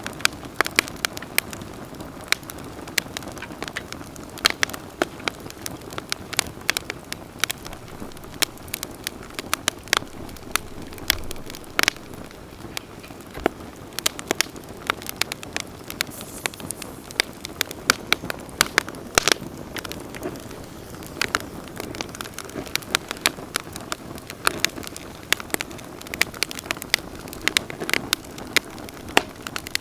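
Wood campfire crackling and popping: many sharp snaps over a steady low hiss of burning.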